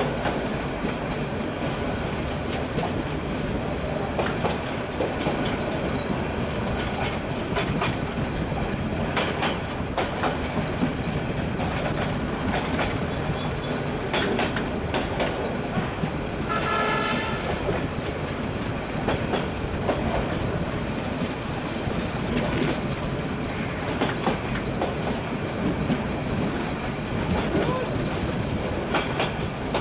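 Commuter train running over jointed track, heard from an open carriage window: a steady rumble broken by frequent clicks from the wheels on the rail joints. A short horn blast sounds about halfway through.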